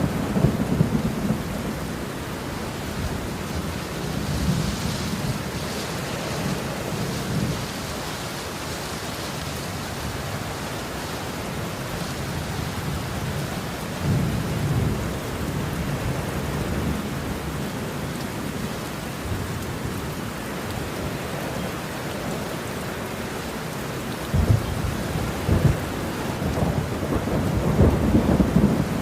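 Steady rain falling, with thunder rumbling low several times: at the start, a few seconds in, around the middle, and building again near the end.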